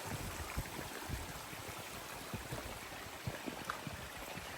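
Steady rushing of running water, a stream, with irregular soft low bumps underneath.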